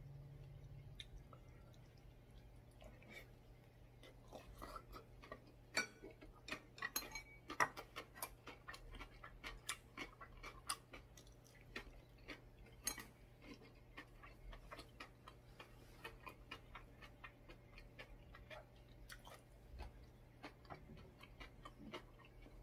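Close-miked chewing of a mouthful of bean sprout rice: quiet, irregular smacking and clicking mouth sounds, thickest from about six to thirteen seconds in, over a faint steady hum.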